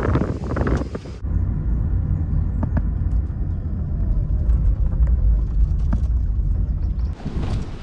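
Gusty wind-like noise for about the first second, then a steady low rumble of a car being driven on the road, which changes near the end.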